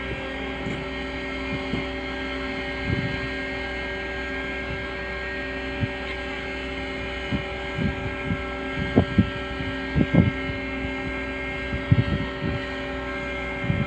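Crane truck's diesel engine running at a steady speed, with irregular clunks and knocks of metal from about six seconds in.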